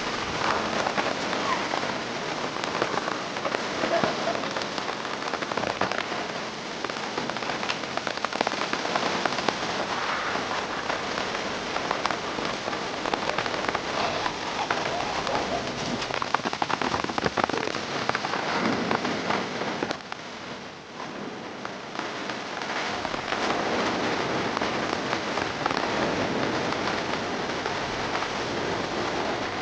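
Steady rain falling on surfaces, a dense hiss flecked with many small ticks of drops striking, easing briefly about two-thirds of the way through.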